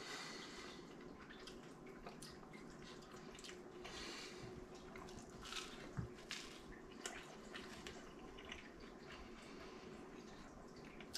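Quiet chewing of a crisp-crusted pizza slice: faint crunches and wet mouth clicks, with a single low thump about six seconds in.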